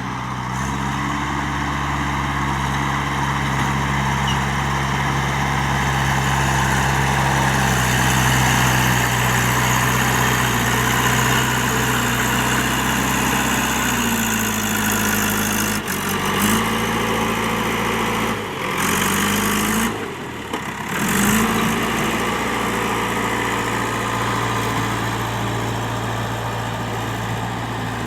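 JCB 3DX backhoe loader's diesel engine running steadily. In the second half its pitch dips and rises several times as it takes load, and the sound cuts out briefly a few times.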